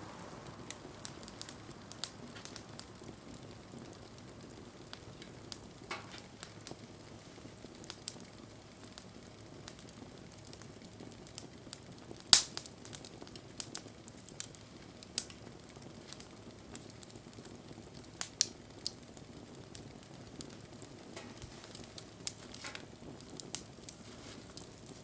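Wood campfire burning with a faint steady hiss and scattered sharp crackles and pops at irregular times, the loudest pop about halfway through.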